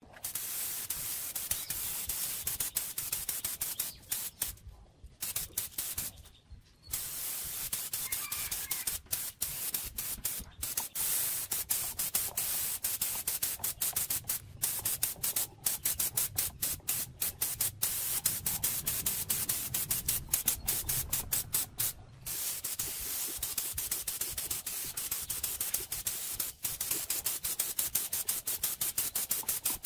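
Steady hiss of paint being sprayed, stopping and starting many times with brief breaks.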